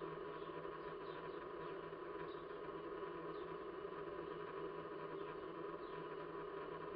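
Faint, short, high chirps of small birds, repeating irregularly over a steady background hum and hiss.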